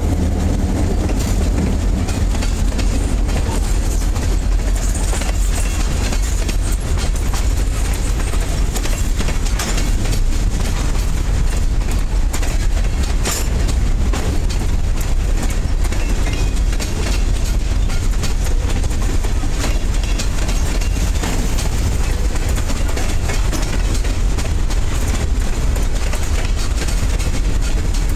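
Freight train cars rolling past close by: wheels clicking over the rail joints over a steady, heavy low rumble.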